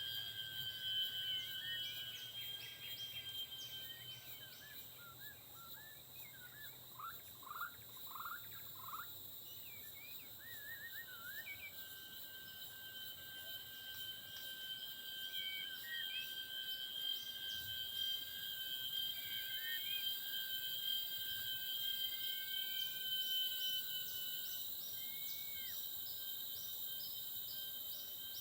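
Forest insects droning steadily, with a fast, even pulsing chirp above, while a songbird gives short whistled phrases of rising and falling notes. The bird notes come mostly in the first half and sparsely after.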